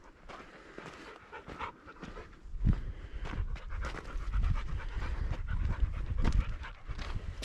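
A Rottweiler panting hard in quick, uneven breaths, tired out from a long walk.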